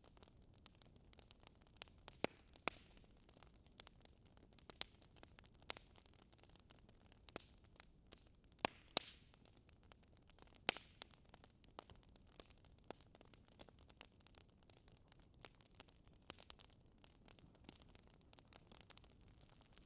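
A wood fire crackling faintly in a fireplace, with irregular sharp pops over a soft hiss.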